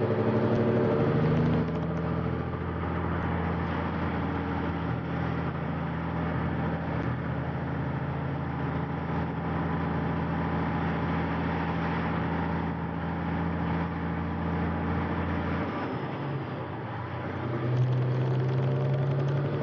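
Semi truck's diesel engine running at highway speed with road noise, heard inside the cab. Near the end the engine note drops briefly, then picks up again.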